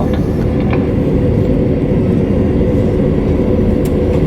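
Steady cabin drone inside an Airbus A320 taxiing after landing: engine and air-conditioning noise with a steady low hum.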